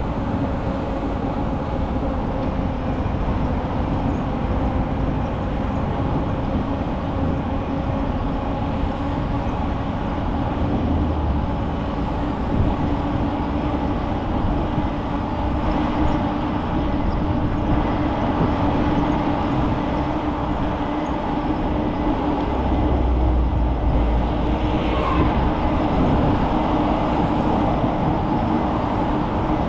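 Steady rolling noise of a bicycle ride: tyres humming on the path with a steady droning tone, and wind buffeting the microphone in low rumbles twice.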